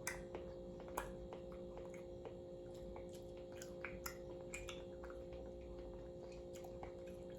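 Faint, irregular small clicks and ticks scattered through a low, steady hum.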